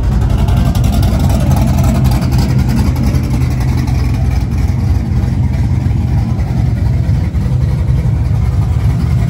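1980 Chevrolet Camaro Z28's 383 cubic inch V8 with a big cam and aluminum heads running loud and steady through its exhaust, a choppy low rumble.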